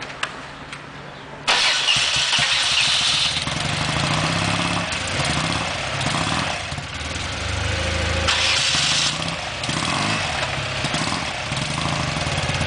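Motorcycle engine starting about a second and a half in, then running unevenly at a cold idle.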